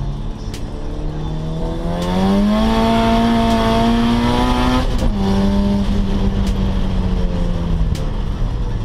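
Turbocharged Acura Integra GSR four-cylinder engine at full throttle, heard inside the cabin with the tyres spinning. The revs climb to a high steady note with a rushing hiss, drop sharply about five seconds in as if at a gearshift, hold a slightly lower note, and fall away near the end.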